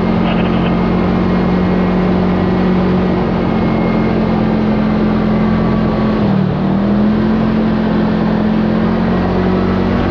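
Side-by-side UTV engine running steadily under way, over a rush of tyre and road noise. The engine note drops briefly and picks up again about six seconds in.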